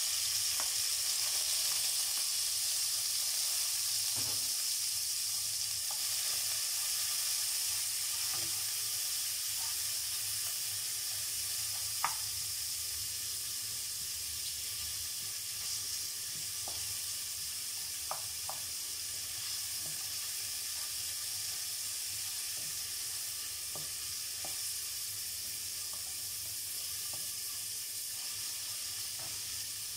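Sliced onion, garlic, ginger and chili sizzling steadily in hot oil in a pot, stirred with a wooden spoon that now and then taps the pot; a sharp tap about twelve seconds in is the loudest.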